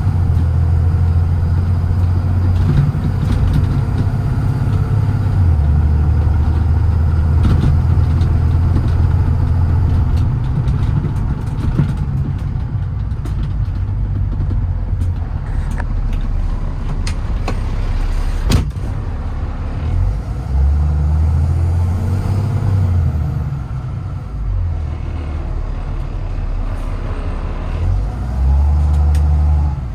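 Kenworth T370's Paccar PX-6 6.7-litre diesel running as the truck is driven: a steady low drone that steps in pitch a few times. A single sharp click comes about two-thirds of the way through.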